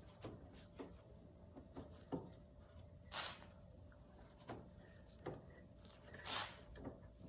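Spin-on oil filter being screwed onto the engine and tightened: faint scattered clicks and knocks of hands and metal, with two short rubbing swishes about three and six seconds in.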